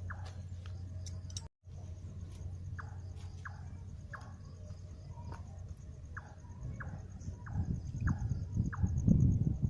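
Outdoor night ambience: a small animal repeats a short, falling chirp about every half-second to second over a faint, pulsing high insect tone and a steady low hum. Rustling handling noise grows louder near the end.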